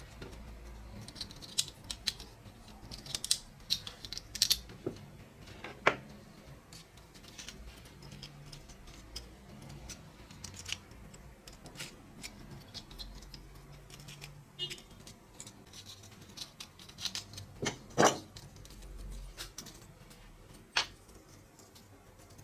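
Irregular clicks, taps and light scraping of hand tools working small metal parts of a rusty toy truck, with the loudest tap about 18 seconds in.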